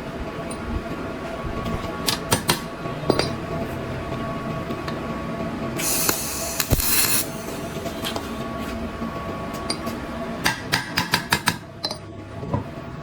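Workshop sounds over a steady hum: scattered metallic clicks and knocks, with a quick run of them near the end. A short hiss lasts about a second around the middle.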